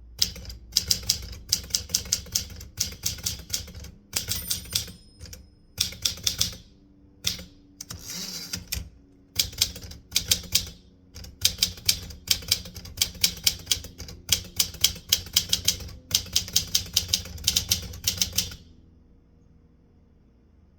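Typewriter keys being struck in quick runs with short pauses between words, with a brief rasping sweep about eight seconds in. The typing stops about eighteen and a half seconds in.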